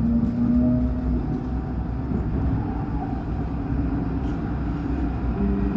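Alstom NGT8D low-floor tram running along the track: a steady low rumble with a whine from the electric traction drive that rises slightly in pitch over the first second, then fades.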